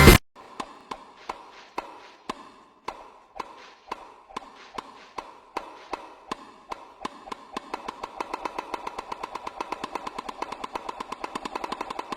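A steady series of sharp clicks, about two a second at first, speeding up to several a second in the second half, over a faint steady hum.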